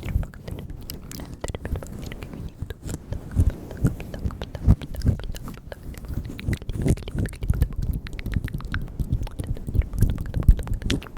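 Close-miked ASMR mouth sounds: rapid, irregular wet clicks and smacks of lips and tongue, with soft low thumps among them.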